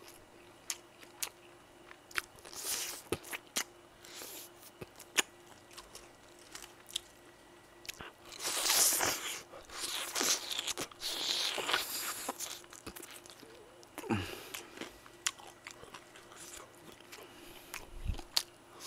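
Close-miked biting and chewing of fried chicken: sharp crunches and clicks of the crisp coating, with a stretch of louder crunching about halfway through.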